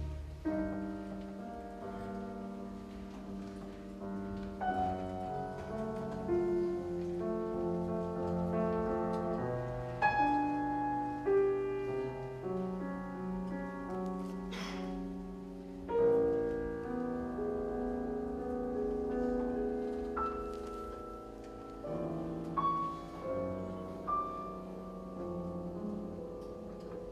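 Piano and string orchestra playing a quiet, slow classical passage from a piano concerto, held notes changing every second or two.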